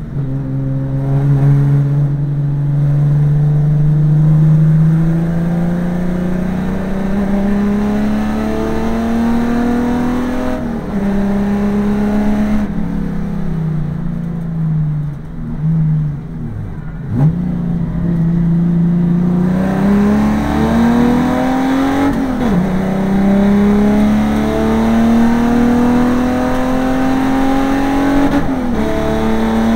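Holden VN Commodore race car's engine heard from inside the cabin under hard acceleration, its pitch climbing steadily and then dropping back at each gear change, about five times. One brief dip and sharp climb comes just past the middle.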